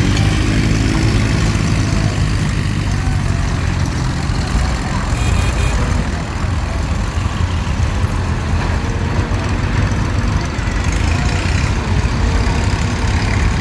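Tractor engine running steadily, a low, even drone with no breaks.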